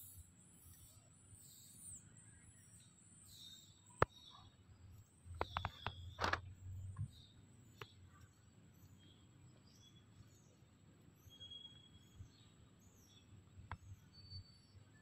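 Quiet outdoor ambience with faint, scattered bird chirps, and a few sharp clicks and rustles about four to six seconds in.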